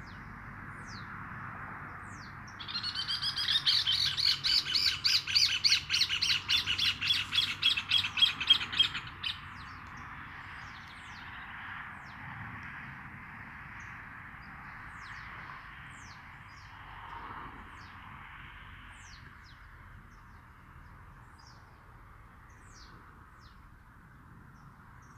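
Birds calling outdoors: a loud, rapid run of harsh repeated notes lasting about six seconds, starting a few seconds in, with scattered short, high, falling chirps over a steady hiss.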